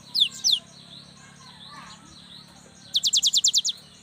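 Cinereous tit (gelatik batu) calling: two sharp, high, downslurred notes at the start, then a fast run of about eight descending notes near the end. Faint chirping and a low steady hum sit underneath.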